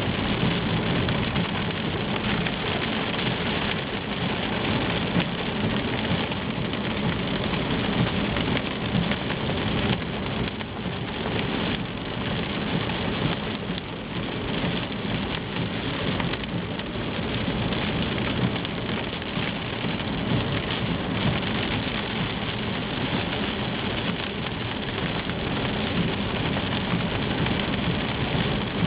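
Steady rain falling: a dense, even patter that holds at the same level throughout.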